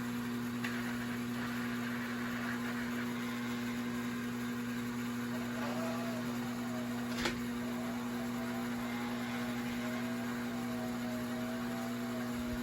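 Lionel Mijack crane accessory running on its electric motors: a steady electrical hum throughout, with a small motor's wavering whir coming in about five and a half seconds in and a sharp click about seven seconds in.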